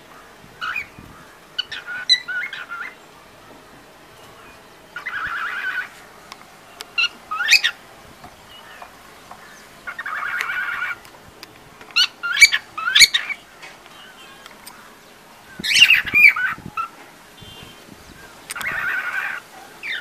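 Cockatiel calling in its courtship display: short chirps and sharp rising whistles, with three harsh buzzing calls about a second long.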